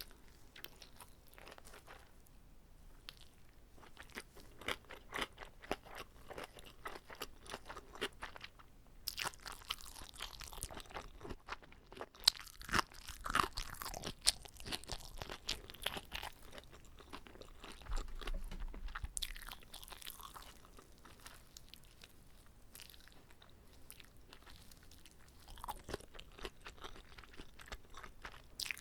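Biting into and chewing a whole, uncut gimbap roll: crunching and crackling of the seaweed-wrapped rice and fillings, dense in the middle and sparser toward the end.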